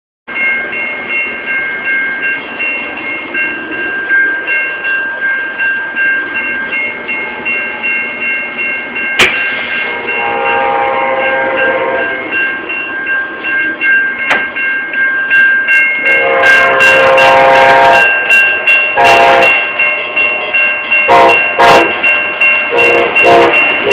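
Railroad crossing bell ringing steadily. From about ten seconds in, an Amtrak train's air horn sounds several blasts, two long then shorter ones, getting louder as the train approaches.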